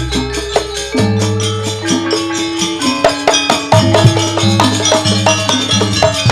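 Gamelan music accompanying a Janger performance: quick, dense struck percussion over held low pitched tones.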